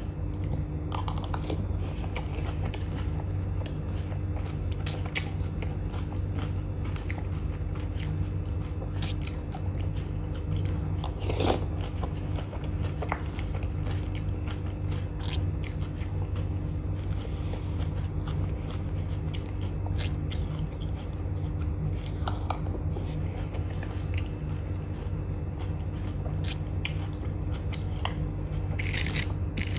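Close-up mouth sounds of biting and chewing dahi puri, crisp puri shells with yogurt filling, with scattered small crunches and wet chewing clicks over a steady low hum.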